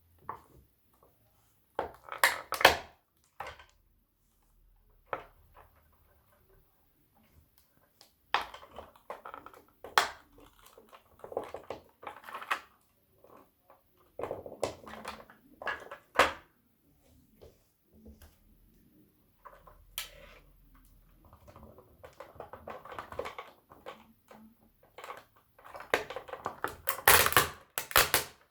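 A toy tow truck and toy car crunching and cracking under a man's foot, in irregular clusters of sharp cracks with quiet gaps between, loudest about two seconds in and near the end.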